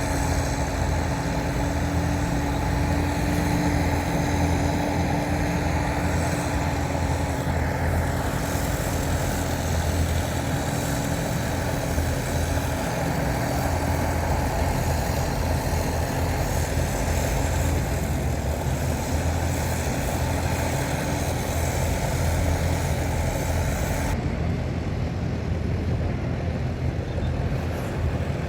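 Heavy diesel earthmoving machinery running steadily, with a deep, continuous engine drone. Near the end the upper hiss drops away while the drone carries on.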